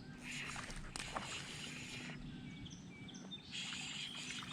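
Wind buffeting the microphone and water sloshing around a kayak, with a few short high chirps in the middle.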